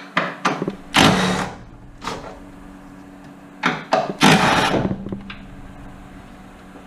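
A power tool with an extension and deep socket running in two short rattling bursts, about a second in and again about four seconds in, spinning off the 14 mm top-mount nuts of a strut.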